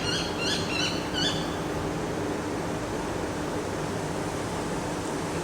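Steady wind noise, with a small bird chirping quickly, about three chirps a second, which stops after about a second and a half.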